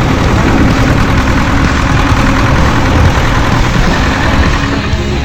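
1969 Zetor tractor's diesel engine running steadily, loud and close.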